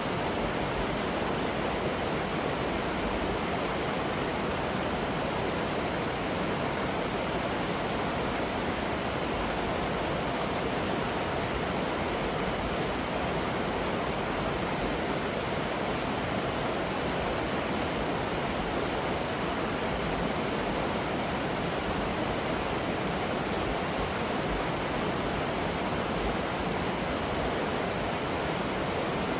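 Waterfall running: a steady, unchanging rush of falling water.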